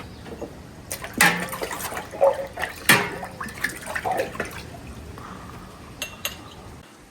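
Water splashing, with several sharp knocks and clinks of dishes, the loudest about one and three seconds in.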